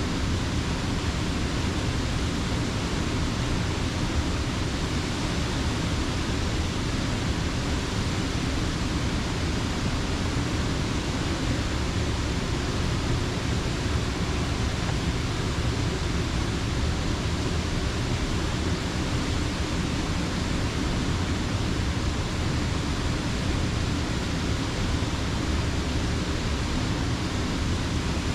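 Slippery Rock Creek's water rushing steadily, an even unbroken noise with nothing else standing out.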